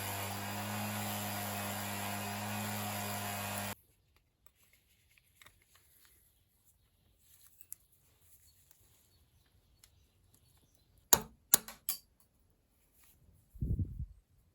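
An electric power tool runs steadily with a mains-frequency hum and cuts off suddenly about four seconds in. Near-quiet handling follows, with faint ticks, a few sharp clacks about eleven seconds in, and a low thud near the end.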